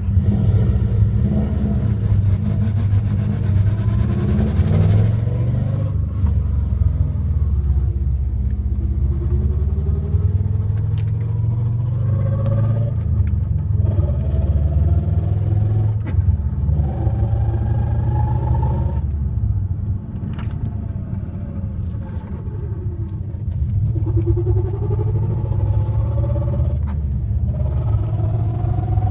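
Subaru WRX drivetrain running with a heavy low rumble and a whine that climbs in pitch and cuts off, again and again. This is the weird transmission sound of a gearbox that will not engage 4th and 5th gear.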